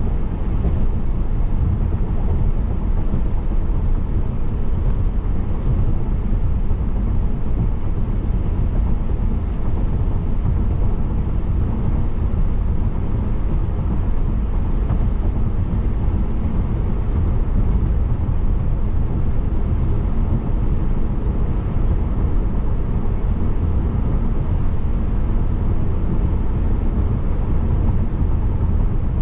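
Steady road noise of a car driving, mostly a low rumble of tyres and engine, heard from inside the cabin.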